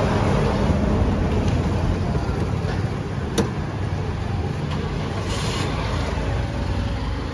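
Toyota Corolla Altis four-cylinder petrol engine idling steadily, with a single sharp click about three and a half seconds in.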